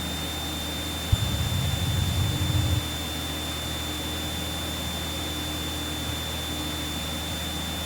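Steady drone of a light aircraft's engine heard in the cockpit, with a steady high whine under it. A burst of low rumble comes from about one to three seconds in.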